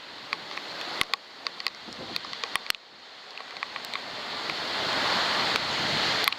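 Storm wind and rain on an outdoor waterproof camera: sharp, scattered ticks of raindrops striking the housing over a steady rush. From about halfway through, a gust swells for about three seconds and cuts off suddenly near the end.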